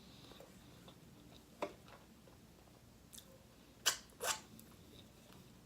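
Close-up eating sounds from a seafood meal: a few short sharp clicks and crunches, one about a second and a half in and a louder pair about four seconds in, over a faint quiet background.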